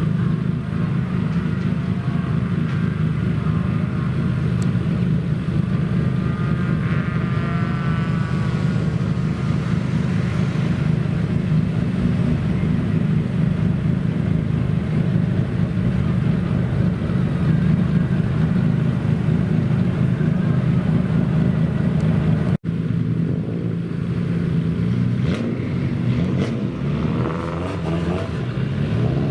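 Modified Japanese cars' engines and exhausts running with a steady deep rumble. The sound cuts off abruptly about 23 seconds in, and another engine carries on.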